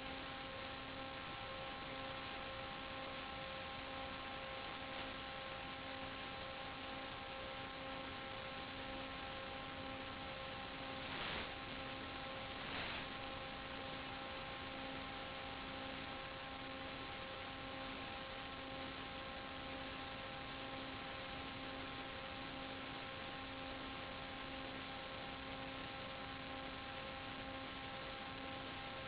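Steady hiss with a constant buzzing hum, the electrical noise carried on the audio channel of an analog 5.8 GHz FPV video transmitter. Two brief crackles break in near the middle.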